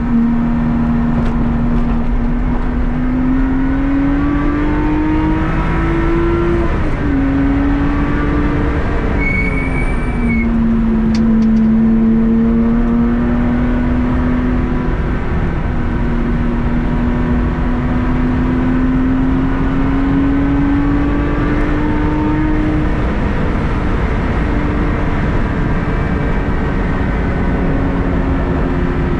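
Car engine on a lap of the circuit. Its note climbs slowly through each gear and drops back at upshifts several times, with steady road and wind noise throughout. A brief high whistle sounds about ten seconds in.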